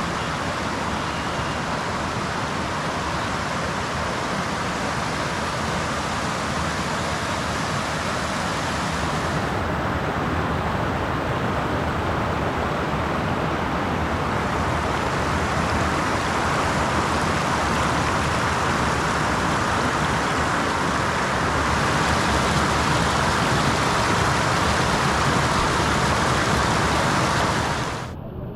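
Steady rush of river water pouring over a small waterfall into a swimming hole, a little louder in the second half and dropping off sharply at the very end.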